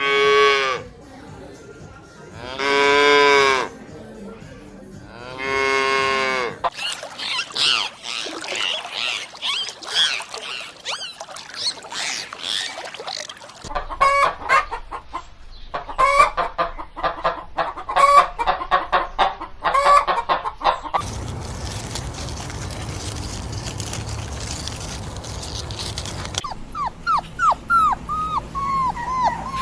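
A series of farm animal calls. It opens with three long mooing calls about a second each. A stretch of high chirping follows, then rapid repeated fowl calls. Near the end comes a run of short falling yelps like a dog whimpering.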